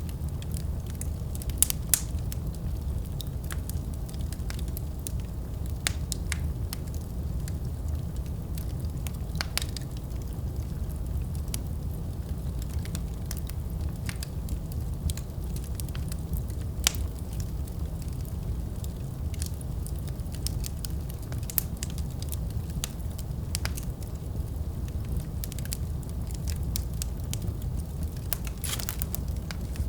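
Wood fire burning in a fireplace: a steady low rumble with sharp crackles and pops scattered irregularly.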